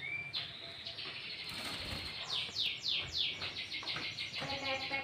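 Sooty-headed bulbul (kutilang) singing a busy, high song mixed with imitated greater green leafbird (cucak ijo) phrases. About the middle of the song comes a run of about six quick downward-sweeping whistles, followed by fast repeated notes.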